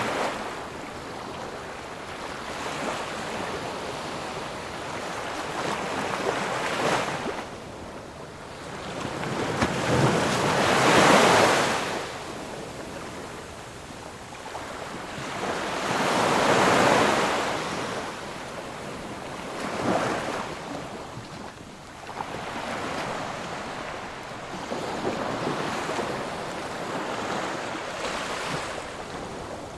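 Ocean surf: waves breaking and washing up, the rush rising and falling every few seconds, with the two biggest breakers about a third and just over halfway in.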